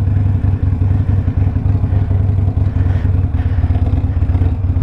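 Harley-Davidson Sportster Iron 1200's air-cooled V-twin running steadily under way through a Two Brothers 2-into-1 exhaust, a fast, even, low beat of firing pulses.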